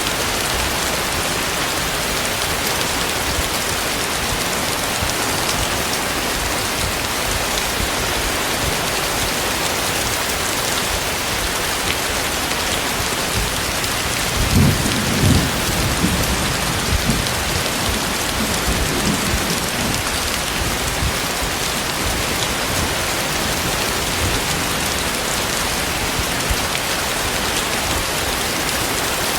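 Heavy rain falling steadily, with a low rumble of thunder swelling about halfway through and fading over the next few seconds.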